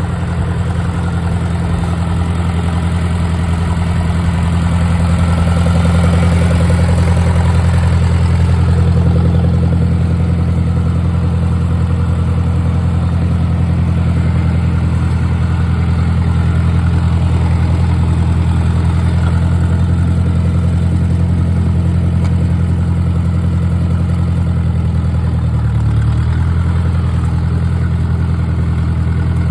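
A 1953 Ford Jubilee tractor's four-cylinder gasoline engine running steadily at low revs, picking up a little about five seconds in before settling again.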